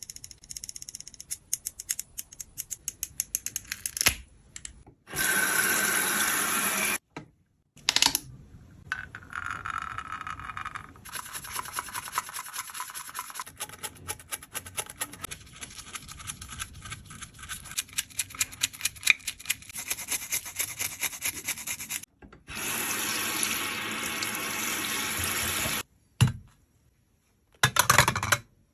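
A tool scraping and crushing pressed makeup powder in quick, close-set strokes, with two stretches of steady hiss that start and stop abruptly.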